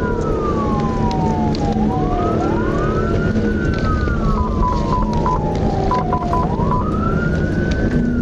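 Police car siren wailing in a slow rise and fall, two wail tones crossing each other, with a few short beeps in the middle, over the steady rumble of engine and road noise during a high-speed pursuit.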